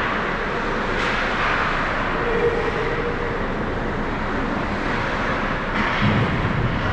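Ice hockey rink noise during play: a steady wash of skating, crowd and arena sound, with a couple of sharp knocks like stick or puck hits, about a second in and again near the end.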